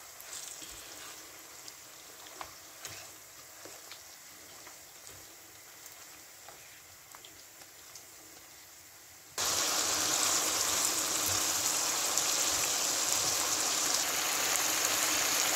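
Chicken and yogurt faintly sizzling in a karahi, with a few light spatula scrapes and taps. About nine seconds in, loud steady sizzling of chicken frying in hot oil starts abruptly.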